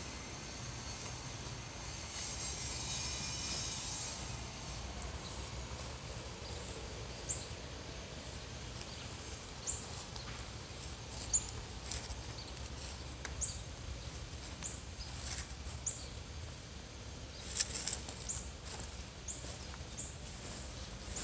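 Outdoor yard ambience: a small bird gives short, high chirps roughly once a second over a steady low background noise, with a faint high buzzing in the first few seconds.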